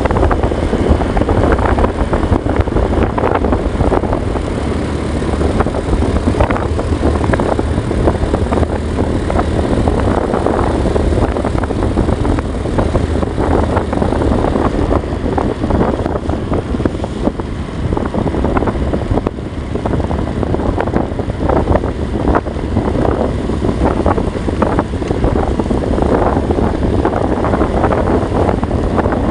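Wind buffeting the microphone: a loud, continuous rumbling noise that swells and dips in gusts.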